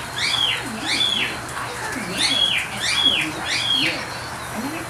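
A bird singing clear whistled notes that rise and fall, repeated about three times a second in short runs with brief pauses between.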